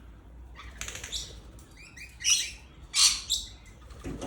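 Small parrots squawking and chirping: a run of short chirps about a second in, then two loud, harsh screeches about two and three seconds in.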